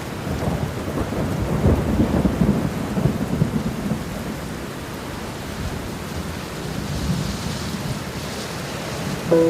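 Thunder rumbling and crackling over steady heavy rain, loudest in the first few seconds and then settling back into the even hiss of the rain.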